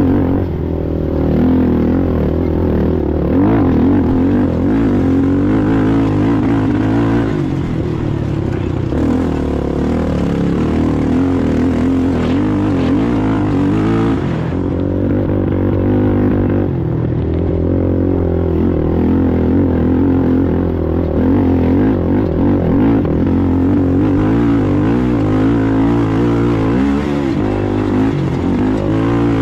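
Sportsman ATV engine running hard in a race, its pitch rising and falling continuously as the throttle is worked.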